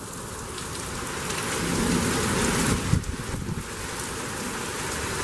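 Heavy rain pouring down in a severe thunderstorm with strong gusty wind; the noise swells to its loudest about two to three seconds in, then eases a little.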